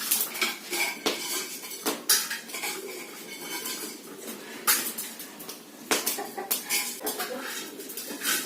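Metal pots and utensils clanking and scraping, with irregular sharp clatters about once a second.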